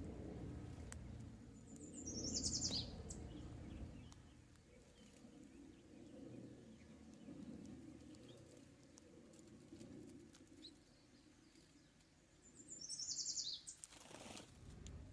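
A bird calls twice, about ten seconds apart: each call is a short, rapid trill of high notes falling in pitch. A low rumble runs underneath, and a brief noisy rush follows the second call.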